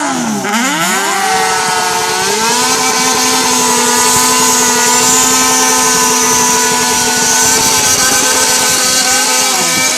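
Sport motorcycle's inline-four engine being revved: the revs drop and climb back twice in the first couple of seconds, then are held high and steady, with a brief dip near the end.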